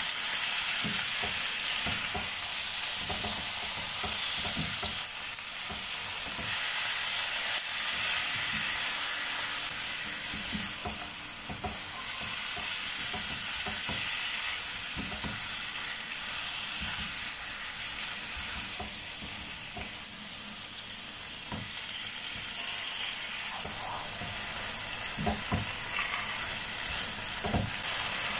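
Chicken pieces and onion sizzling steadily in a frying pan, with the scrape and knock of a spatula stirring them at irregular intervals.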